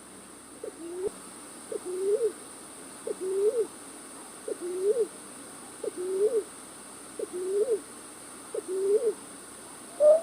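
A night bird's lure call used for trapping: a short low hooting note that rises at the end, repeated seven times about every second and a half. A higher, sharper note comes near the end.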